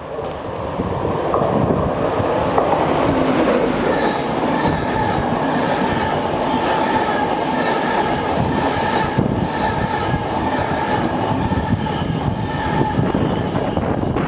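A passenger train running past at close range: a steady, loud rush of wheels on rail, with high steady tones ringing through it from about four seconds in. It builds over the first couple of seconds and cuts off abruptly at the end.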